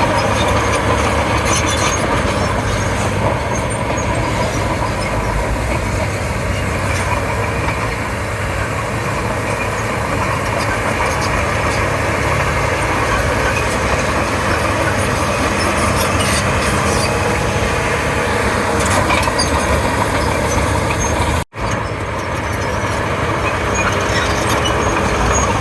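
Komatsu D31P crawler bulldozer's diesel engine running steadily while the machine works, with scattered clanks over the engine. The sound cuts out for an instant about three-quarters of the way through.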